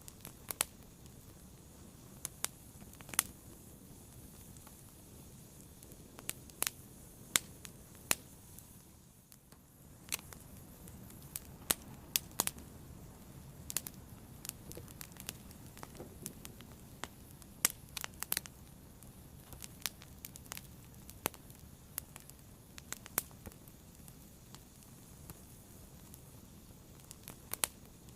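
A fire burning, crackling with irregular sharp pops over a low, steady rushing hiss, with a brief dip in the hiss about nine seconds in.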